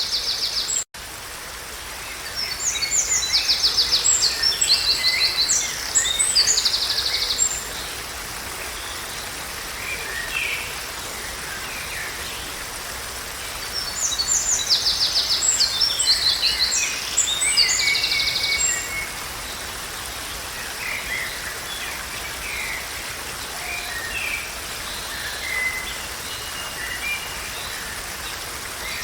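A songbird singing two long phrases of rapid, repeated high chirps and trills, with scattered single notes between them, over a steady background hiss.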